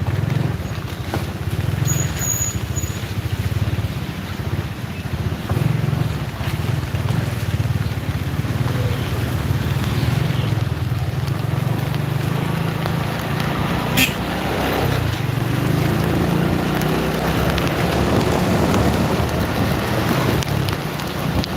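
Road travel in heavy rain: a steady rumble of wind on the microphone and vehicle road noise, with one sharp click about fourteen seconds in.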